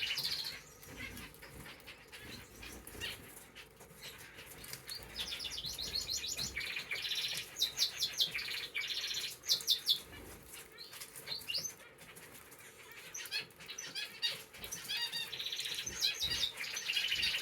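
Caged canaries and finches chirping and singing in fast trills, in repeated bursts with a quieter lull midway, along with wing flapping.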